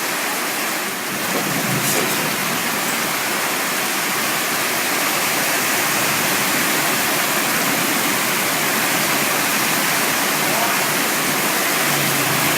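Heavy tropical rain pouring down steadily onto a flooded street, an even hiss. A motorbike engine hum comes in near the end.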